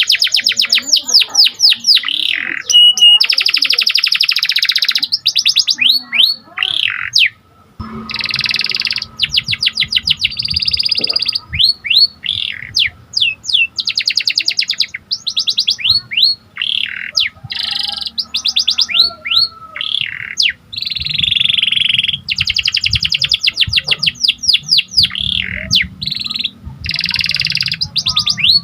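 Domestic canary (AF panda canary) singing a long, continuous song of rapid trills, buzzy rolls and quick chirps. The song breaks off briefly about seven and a half seconds in, and after that a faint low hum sits under it.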